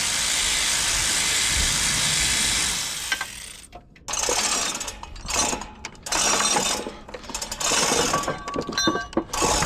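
Cordless power wrench running steadily on an engine-mount screw for about three seconds, then a run of short, uneven ratcheting and metal-on-metal bursts.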